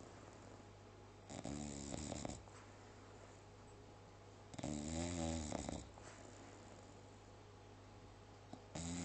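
English Bulldog snoring in sleep: three snores, each about a second long, coming roughly every three and a half seconds, the last starting near the end.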